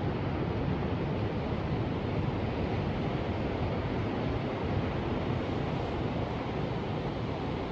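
Ocean surf: a steady, even rush of waves, heaviest in the low range.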